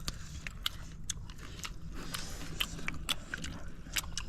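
Someone chewing and biting into spicy cooked bird meat, with irregular short clicks and crunches of eating.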